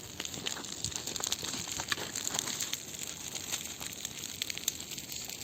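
Bonfire of branches crackling, with irregular sharp pops and snaps over a steady hiss.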